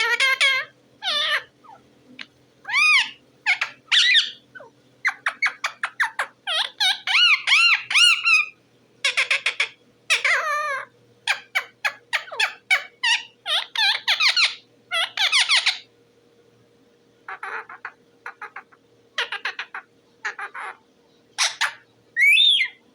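Parrot calling in a long series of short, high, chattering calls, many bending up and down in pitch and some in quick runs, with a brief pause about two-thirds of the way through.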